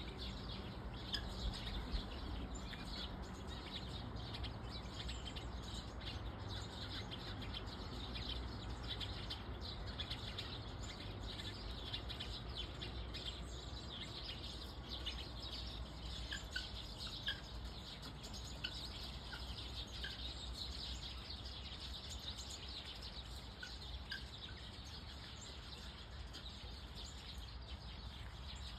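Small birds chirping and twittering continuously in the background, with a few separate short high notes, over a steady low rumble.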